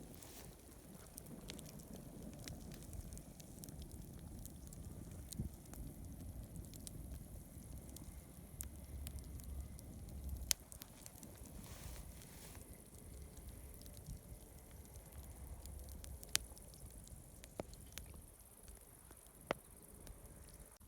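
Campfire burning with a low rumble and scattered sharp crackles and pops, the loudest pop about halfway through and a few more near the end.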